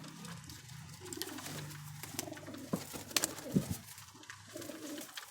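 Domestic pigeons cooing, low and repeated, with a few sharp taps, the loudest about three seconds in.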